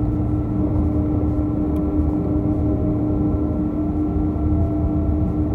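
Steady cabin drone of a Boeing 777-222A taxiing after landing, heard from inside the cabin: a constant low rumble with a steady hum and a few fainter held tones, no change in pitch.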